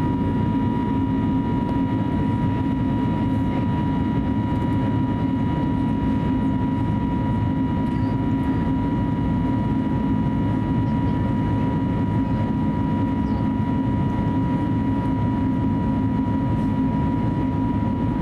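Steady cabin noise inside an Airbus A320neo with CFM LEAP-1A engines: an even low rumble with a thin, constant whine on top, holding the same level throughout.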